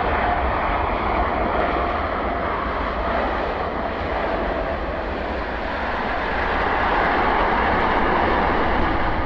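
Jet airliner's engines running steadily as it passes, with a faint whine in the first half and the sound swelling again near the end.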